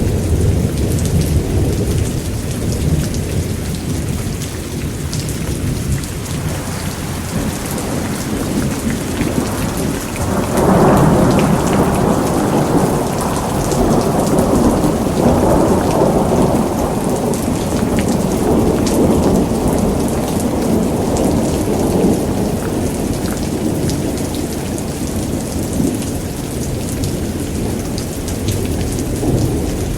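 Thunderstorm: steady heavy rain, with a long roll of thunder that swells about ten seconds in, rumbles on for roughly ten seconds and fades back under the rain.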